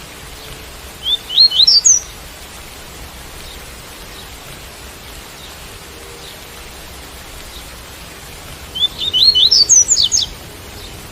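Double-collared seedeater (coleiro tui-tui) singing two short phrases of quick rising notes, about a second in and again near the end, over a steady hiss of rain.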